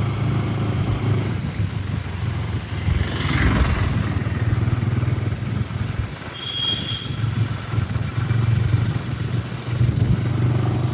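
A motor vehicle engine running steadily, with a brief rushing sound about three and a half seconds in and a short high beep a little past the middle.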